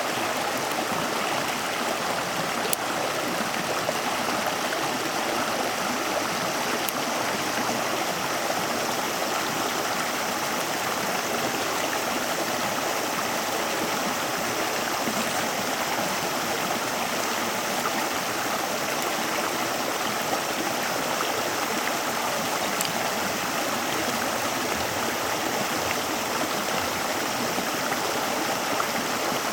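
Steady rushing of a flowing stream, with a few faint clicks here and there.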